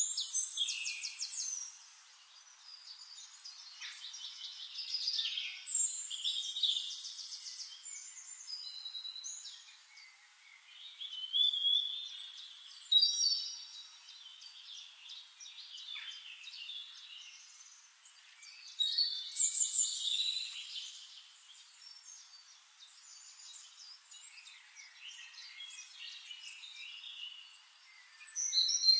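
Several songbirds singing together: overlapping chirps, whistles and rapid trills, swelling in louder bursts every few seconds.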